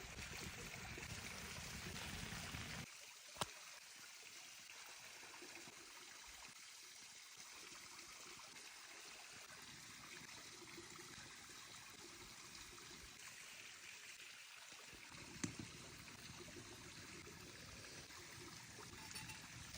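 Faint, steady running water, like a small stream, with a low rumble that drops away about three seconds in and two soft clicks.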